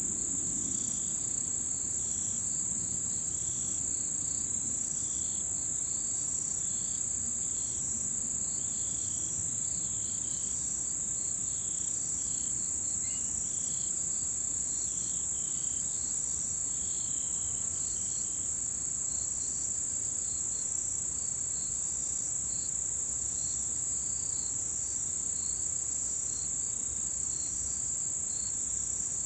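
Autumn insects singing, crickets and the like: one insect keeps up a continuous, very high-pitched trill, while others add shorter, lower chirps that come and go. The lower chirps are thicker in the first half and thin out after about 18 seconds.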